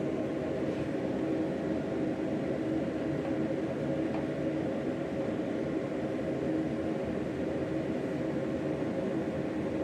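Forge running steadily for heat treating a knife blade: a constant rushing drone of the burner or blower with a low, even hum.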